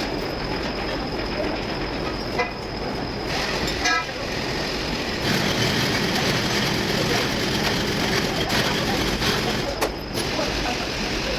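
Truck diesel engine running steadily, with a few brief sharp clicks over it.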